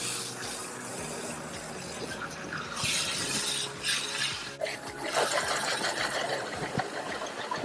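Water spraying onto a car's body: a steady hiss that grows stronger about three seconds in and breaks off briefly before carrying on.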